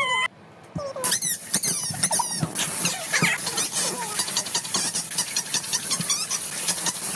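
Lovebirds chirping and chattering. After a brief lull, a dense run of rapid, high, squeaky chirps starts about a second in and keeps going.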